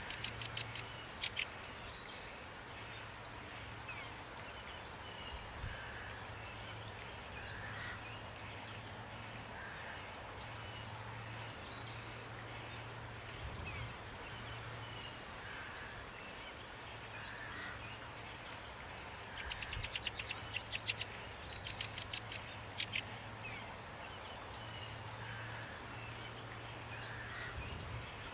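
Songbirds calling over a steady rain hiss: many short high chirps and whistles, with bursts of fast rattling trills at the start and about twenty seconds in.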